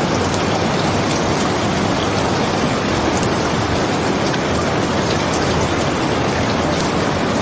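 Steady rain, an even rushing hiss with scattered faint drop ticks.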